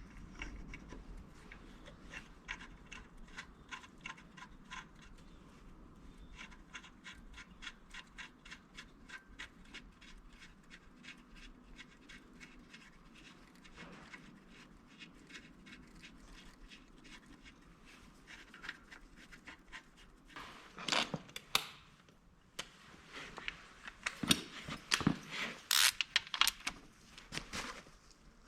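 Light metallic clicking and clattering of hand tools and metal parts being handled: a faint, regular ticking at about three clicks a second, then louder, irregular clatter and knocks over the last several seconds.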